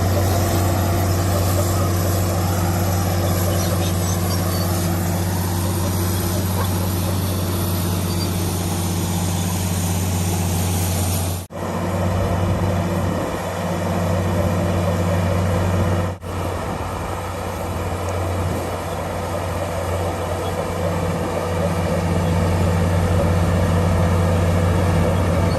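Komatsu D65PX bulldozer's diesel engine running steadily with a deep, even hum. The sound cuts out abruptly for an instant twice, about halfway through and again a few seconds later.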